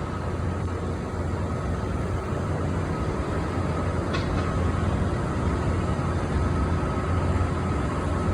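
Steady low hum of a parked Airbus A330 airliner's onboard systems on the flight deck, with a faint steady whine over it and one small click about four seconds in.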